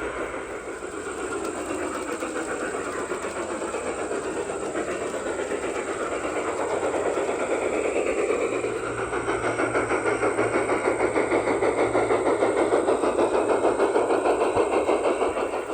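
Garden-scale model train running along its track, with a fast, even clicking and a whine that slides up and down in pitch. It grows louder about halfway through.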